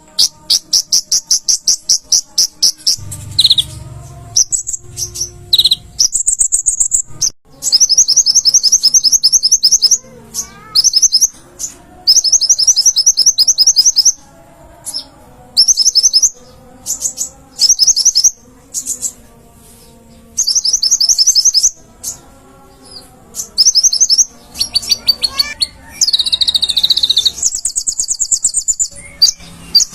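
Konin (kolibri ninja) sunbird singing hard, in phrases of rapid, very high-pitched trilled notes about one to two seconds long, with short pauses between them.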